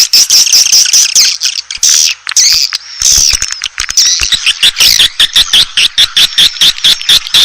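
Swiftlets twittering: dense, overlapping high chirps and trills mixed with rapid short clicks, thickest from about three seconds in. This is the kind of swiftlet call recording played to lure the birds into a nesting house.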